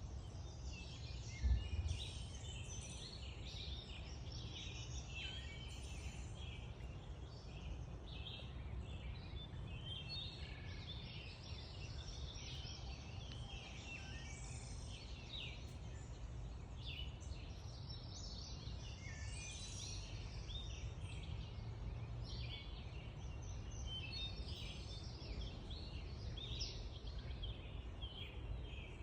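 Morning chorus of several songbirds chirping and singing continuously, over a steady low rumble. A brief thump about a second and a half in is the loudest sound.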